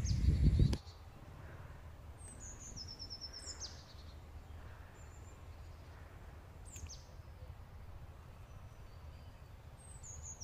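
Outdoor birds calling over a low steady background: a few high chirping trills and sharp downward-sweeping calls every few seconds. In the first second a loud low rumble of wind buffeting the microphone cuts off suddenly.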